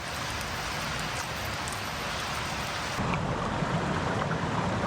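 Steady hiss of water, rain or running river water, with no distinct events; its character changes abruptly about three seconds in.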